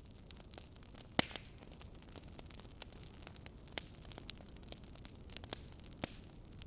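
Wood fire crackling in a fireplace: irregular sharp pops and snaps, the loudest about a second in, over a steady low hiss and rumble of the burning logs.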